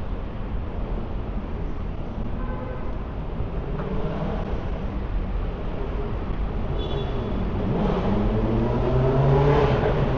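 City street traffic: a steady low rumble of engines, with a motor vehicle accelerating and growing louder over the last few seconds, its engine note rising.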